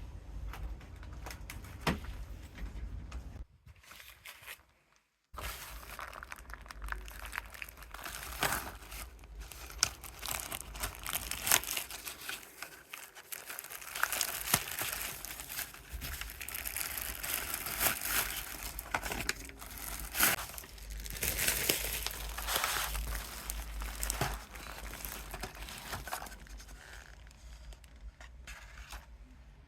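Packaging being crinkled and handled, with many small knocks and clicks; it drops out briefly about four seconds in.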